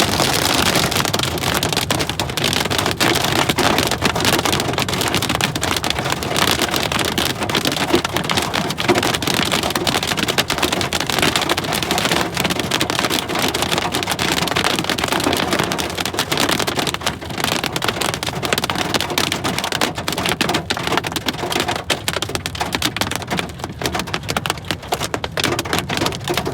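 Hailstones pelting a moving car in a severe hailstorm: a loud, dense, rapid clatter of impacts on the car's body. The hits become a little sparser and quieter over the last few seconds.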